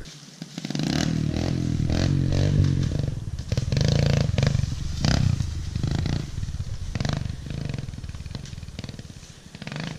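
Small dirt bike engine revving hard, its pitch rising and falling, growing fainter over the last few seconds.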